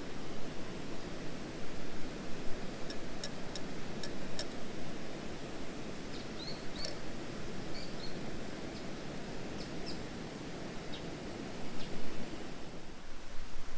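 Steady outdoor ambient noise with a cluster of sharp clicks about three to four seconds in and a few short, faint bird chirps a little later.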